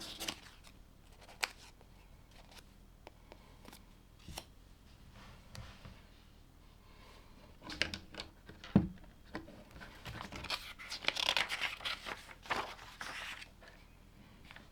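LEGO pieces being handled on a table: scattered sharp plastic clicks and a knock, then a few seconds of crinkly plastic-bag rustling starting about ten seconds in.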